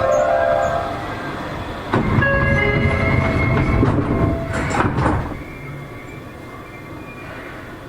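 Seibu 40000 series train standing at the platform before departure: chime tones ring over a low rumble, then the doors close with two knocks about five seconds in, and the sound inside the car becomes much quieter.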